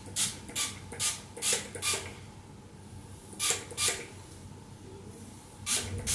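Pump-spray bottle of Elseve heat-protection hair spray squirted onto hair in short hissing puffs: five in quick succession, a pause, two more, and another two near the end.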